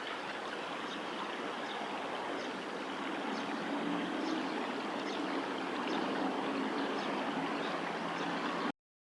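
Steady rush of flowing river water, with a faint low hum joining for a few seconds in the middle. The sound cuts off abruptly near the end.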